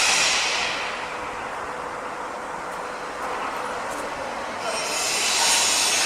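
Construction site din: a loud, hissing rush of noise that fades during the first second, eases to a steady lower clatter, then swells again near the end.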